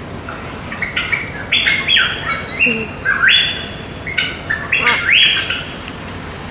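Parrot calling: a run of short, loud squawks and chirps, several rising in pitch, lasting about five seconds over a steady background hiss.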